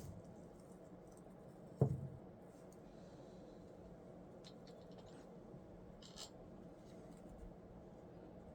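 Faint handling noises of small parts: a single knock about two seconds in, then light clicks and scratching.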